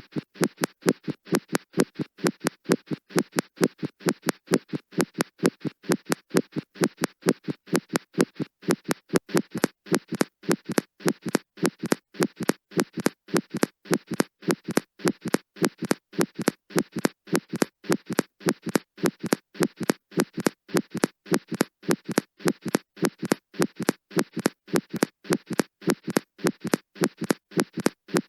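Heart sounds heard through a stethoscope recording, beating in a steady, regular rhythm, with the first heart sound split into two close components: a split S1.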